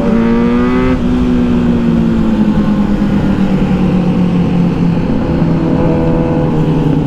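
Kawasaki Z900's inline-four engine revving up briefly, cutting off about a second in, then its note falling slowly as the bike rolls on and slows, over a steady rush of noise.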